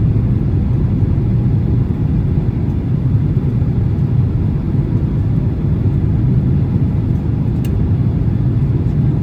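Steady low rumble of a Boeing 767-300 in flight, heard inside the cabin: jet engine and airflow noise. A faint click about three-quarters of the way through.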